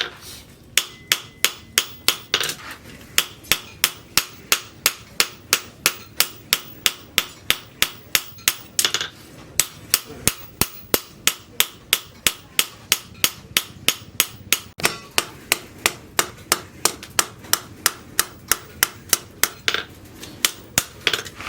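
Steady hand-hammering on steel at an anvil, sharp ringing blows at about three a second, as the rebar is forged into a sickle blade.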